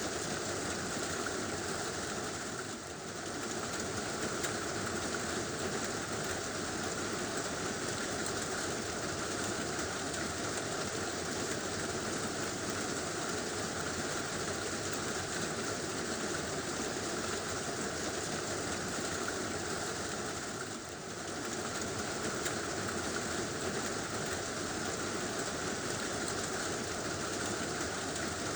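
Heavy rain drumming steadily on a tin roof, a dense even patter that dips briefly twice.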